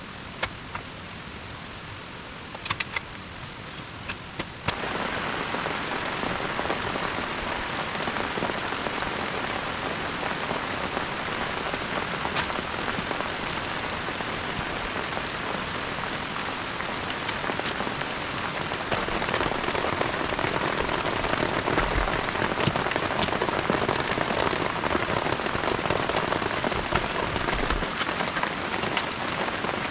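Heavy rain falling steadily, with a few sharp drips or ticks at first. It gets abruptly louder about five seconds in and heavier again about two-thirds of the way through.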